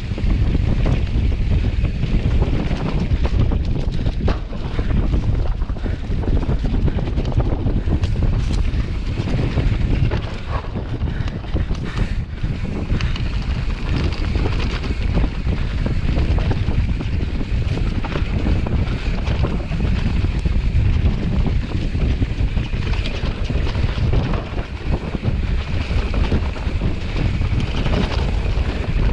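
Wind buffeting the microphone: a loud, uneven rumble that holds with small rises and dips.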